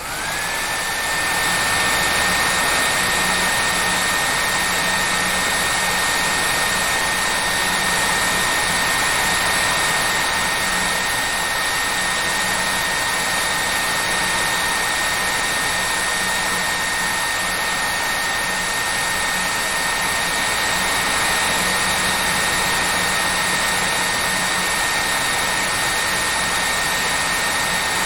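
Hair dryer running steadily: a loud, even rush of air with a steady high whine. The dryer comes up to speed at the very start, its whine rising into pitch within the first second.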